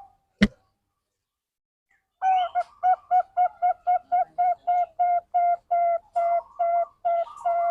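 A sharp click, then after a pause a zebra dove's song: a long, even run of short cooing notes, about four a second, lasting some five seconds.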